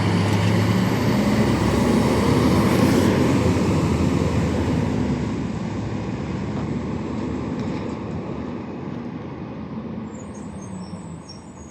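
Garbage truck driving off: its engine and road noise hold steady for the first few seconds, then grow steadily fainter as it moves away.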